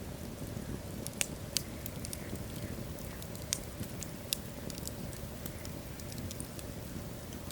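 Wood fire of burning logs in a fireplace, with a low steady rumble of the flames and sharp irregular crackles and pops from the wood, a few louder pops standing out.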